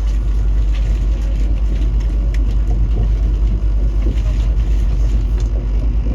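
Steady low rumble of a KTX-Cheongryong high-speed train running, heard from inside the passenger cabin.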